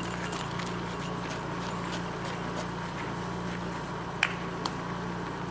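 Scattered light clicks and taps over a steady low background hum, with one sharper click about four seconds in.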